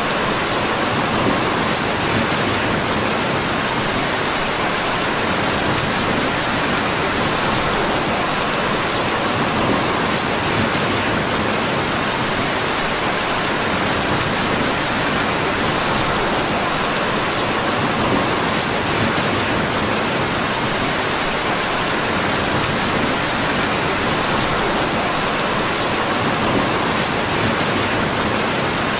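Steady, dense rainfall, an even hiss without pauses, with faint scattered drop ticks.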